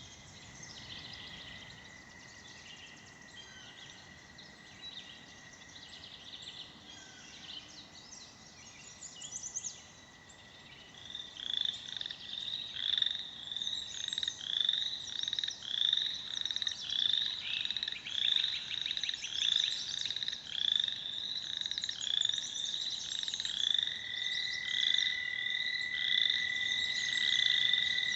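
American toad giving its long, steady, high trill, which fades about ten seconds in and starts again near the end. From about eleven seconds a louder chorus of grey treefrogs joins, repeating short pulsed trills at about one to two a second.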